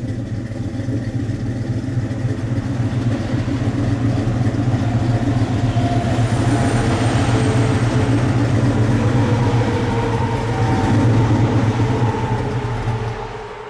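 Ford Mustang GT V8 with a Comp Cams XE274H camshaft, running with a cam rumble at the tailpipes. It grows louder over the first few seconds, holds steady, then stops abruptly near the end.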